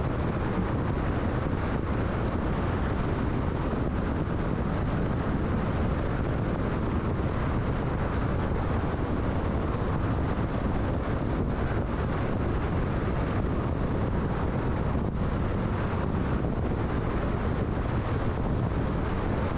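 Car travelling at freeway speed: a steady rush of tyre and wind noise, heaviest in the low end, with no change in pace.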